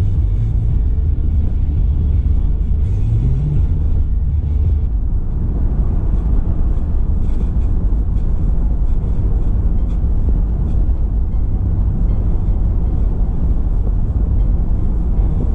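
Car driving, with a steady low rumble of engine and tyre noise; about three seconds in, the engine note rises briefly.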